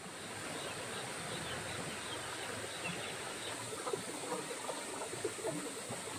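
Outdoor countryside ambience: a steady high insect drone over a background hiss, with scattered short bird chirps that come more often in the second half.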